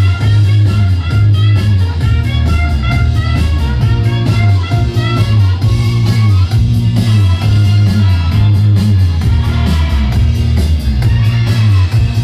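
Loud music played over a party sound system, with a heavy bass line and a steady beat.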